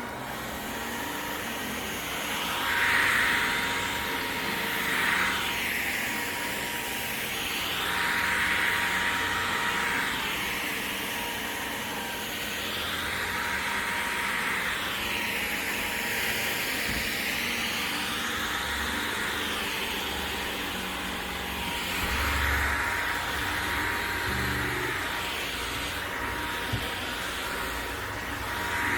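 Vacuum cleaner running, a steady whine under its noise, which swells and eases every few seconds.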